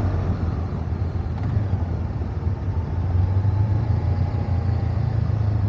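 Parallel-twin motorcycle engine running steadily on the move, a low even drone with road noise over it.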